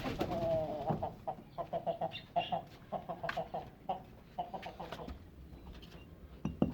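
Chickens clucking, a quick run of short repeated clucks that thins out after about five seconds.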